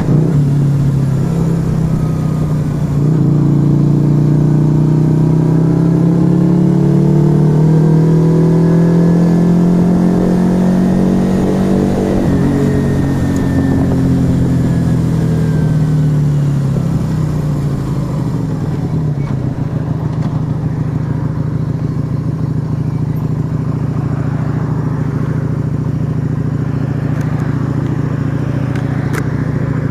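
Yamaha XV125 Virago's small air-cooled V-twin running through a Turbo Kit aftermarket exhaust while riding. The engine note climbs steadily for several seconds as the bike pulls. About twelve seconds in the revs fall away, and then it settles to a steady, lower run.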